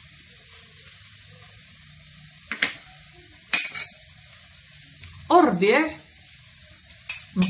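Chicken-liver filling frying in a pan with a faint, steady sizzle. A few sharp kitchenware clicks come about three seconds in.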